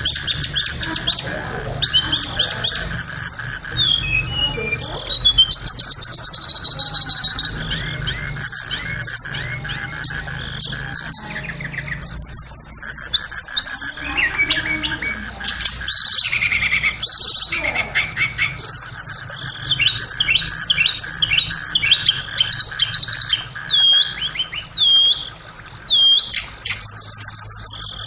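Tledekan (Cyornis blue flycatcher) song: a long, varied run of clear whistles, fast trills and quick chattering notes, with a steady low hum underneath.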